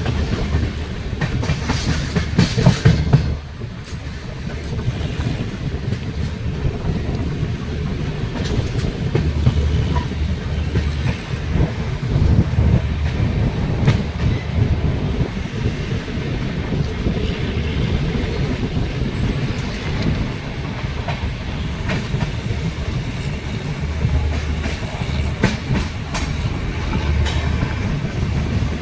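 Duronto Express passenger train running on the rails into a station: a steady low rumble of the coaches, with scattered clicks of the wheels over rail joints, more of them early and near the end.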